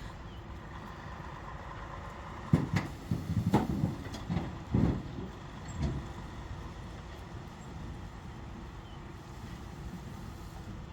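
Semi-truck's diesel engine running low as the rig backs a trailer up onto a tipper ramp, with a run of loud clanks and thumps from about two and a half to six seconds in.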